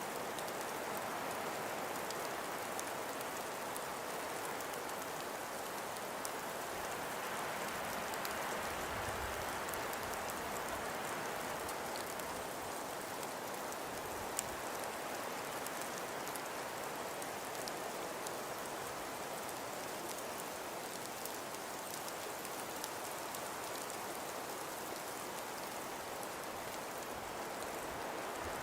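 Wind blowing through a snowstorm: a steady soft hiss that swells and eases slowly, with faint fine ticks of snow throughout.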